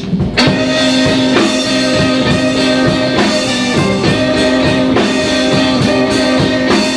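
Blues band playing live: electric guitar over drums in a slow blues, with no singing. The full band comes in about a third of a second in.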